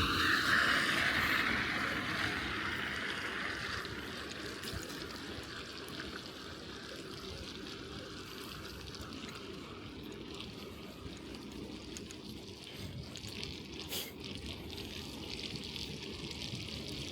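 Bicycle tyres rolling over a wet, slushy snow-covered street, a steady wet hiss and rumble. A louder hiss at the start fades away over the first few seconds.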